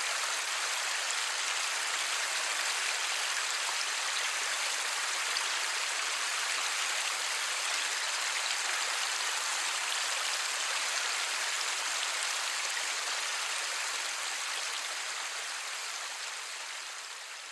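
Steady light rain falling, a dense patter of drops with no thunder. It gradually fades out over the last few seconds.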